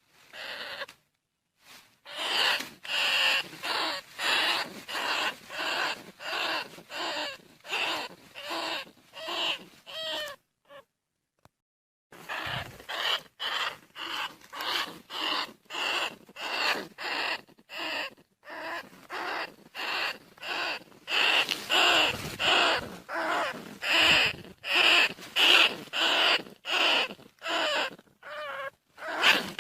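Bandicoot rat calls, repeated short squeaks at about two a second with a short break about a third of the way through, played as a hunting lure.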